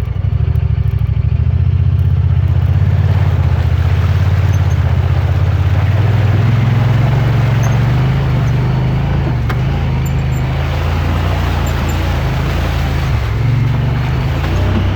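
Side-by-side UTV engine running under load as it pushes through deep swamp water, its pitch shifting, with a steady rushing splash of water that builds after about two seconds.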